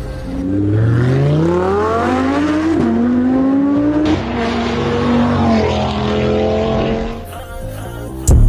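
Car engine accelerating hard, its pitch rising steeply and dropping sharply at each upshift, then holding near steady. A loud thump near the end.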